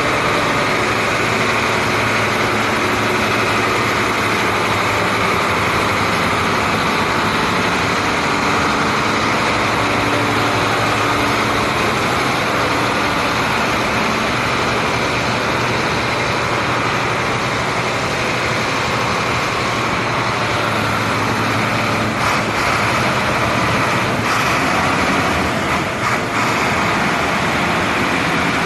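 Heavy truck diesel engine idling steadily, with a few faint knocks near the end.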